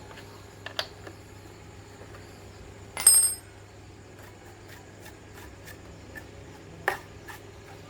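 Small metal parts or tools clinking and knocking against each other, with one loud ringing metallic clink about three seconds in and lighter knocks before and after, over a steady low hum.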